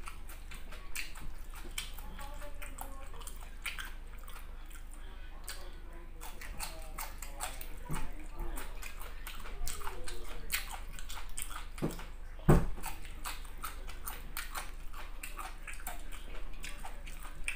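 Close-miked wet chewing and lip smacking: a steady run of small moist clicks from a mouth working on a mouthful of squid and green beans, with one dull thump about two-thirds of the way through.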